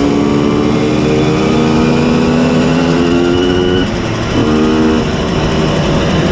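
Simson S51 moped's tuned 90 cc reed-valve two-stroke engine under way at high revs, pitch easing slightly, then a brief drop and quick blip about four seconds in, like a gear change, before it pulls steadily again.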